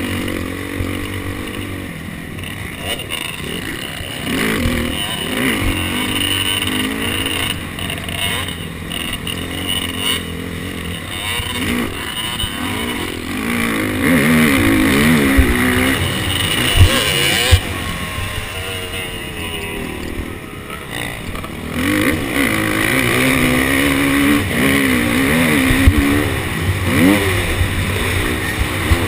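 KTM SX250F single-cylinder four-stroke motocross engine under load, revving up and down over and over as the bike accelerates and backs off around the track. Wind noise on the microphone, with a few sharp thumps.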